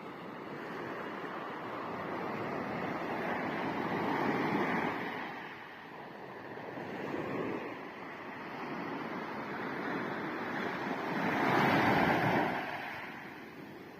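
Sea waves surging in slow swells that rise and fall every few seconds, the biggest about twelve seconds in.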